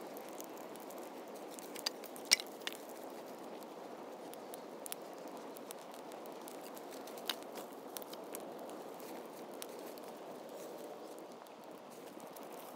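Wood campfire burning: a steady low rush with scattered sharp pops and crackles, the loudest a little over two seconds in.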